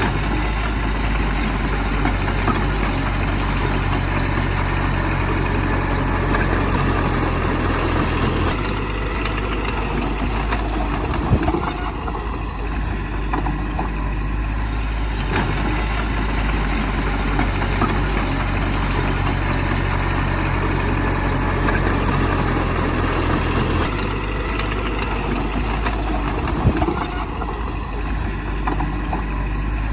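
Heavy diesel engine of earthmoving machinery running steadily, its low tone dropping and returning every several seconds as the load changes.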